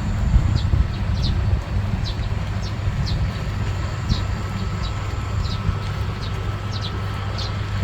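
Outdoor ambience: a steady low rumble with short, high chirps repeating about once or twice a second.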